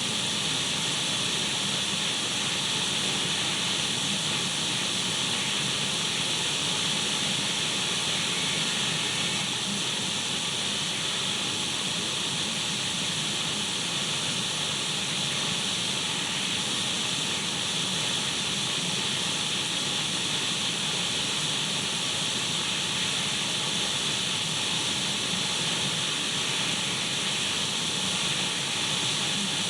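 Steady radio static: an even hiss between stations, brightest in the upper middle range, with no changes.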